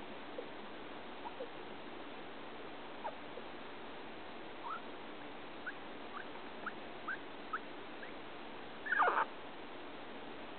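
Guinea pig making short high-pitched squeaks: scattered faint peeps, then a run of brief rising peeps about two a second, then one louder, longer squeal near the end. These are unusual vocalisations whose meaning the owner does not know.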